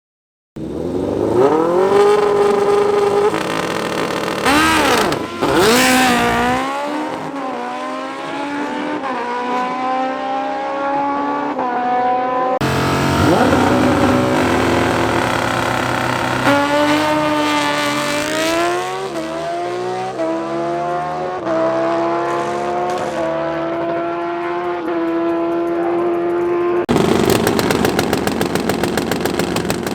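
Drag-racing motorcycle engines accelerating hard down the strip, the pitch climbing and then dropping with each upshift. The runs are cut together, with abrupt changes about a third of the way in and near the end.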